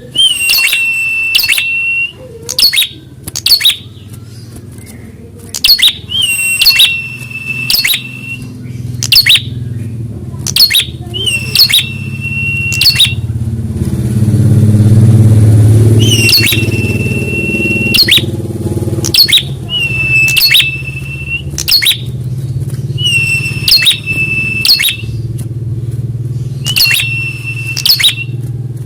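Prinia (prenjak) calling over and over, about every two seconds: each call is a sharp click followed by a steady high whistle held for about a second. Beneath it a low engine rumble swells to its loudest about halfway through, then eases off.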